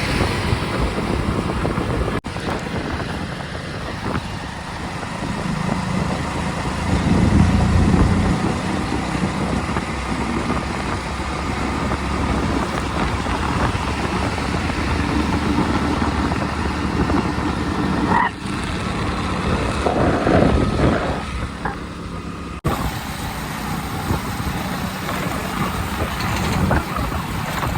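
Road traffic: vehicle engines running and tyre and road noise, steady and loud, with a few sudden breaks in the sound.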